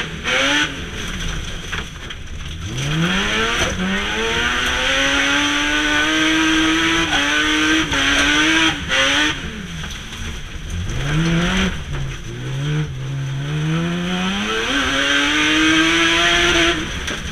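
BMW E36 Compact's M3 straight-six engine racing flat out, heard from inside the cabin: the revs climb, drop sharply at each gear change or lift, and climb again, over and over, over a steady hiss of tyres on loose dirt.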